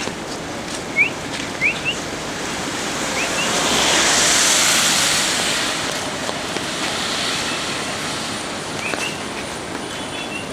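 Steady rush of a monsoon-swollen waterfall, swelling louder and hissier for a couple of seconds about four seconds in, with a few short rising chirps over it.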